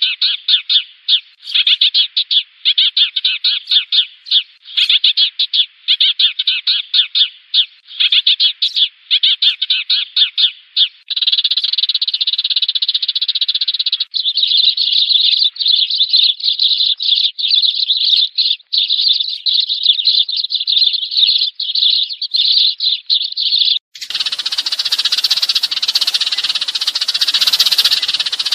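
Sparrows chirping in quick runs of high calls. About a third of the way in, the runs close into a dense, continuous chatter, and near the end it turns harsher and noisier. This is a flock-calling recording played as a decoy to lure sparrows.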